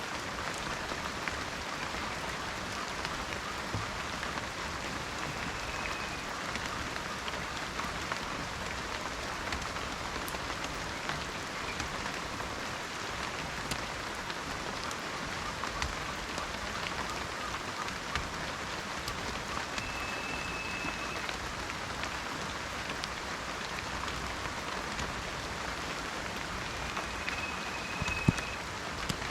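Steady rain falling in a forest, an even hiss with many separate drop ticks. A faint, high, steady whistle comes three times, each lasting about a second.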